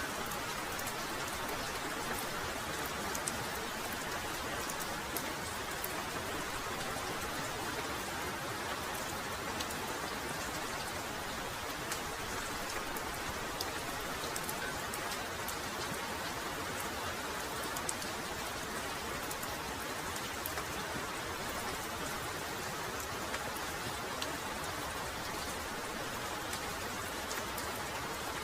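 Heavy rain falling steadily, a dense even hiss with scattered individual drops ticking sharply on top.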